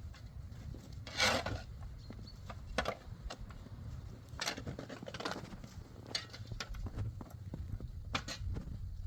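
Irregular short scraping strokes, the loudest about a second in, over a steady low rumble.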